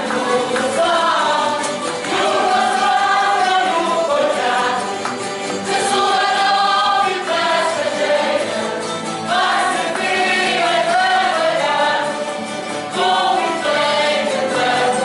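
A group of voices singing a song together like a choir, with musical accompaniment, in long held melodic phrases.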